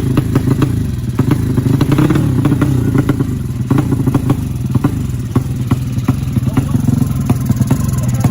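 A 200cc engine idling at a low, steady speed, with a brief small rise in revs about two seconds in. A rapid, irregular ticking clatter runs over the idle.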